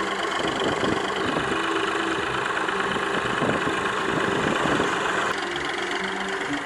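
Ford 4600 tractor engine running steadily, and dropping a little in level about five seconds in.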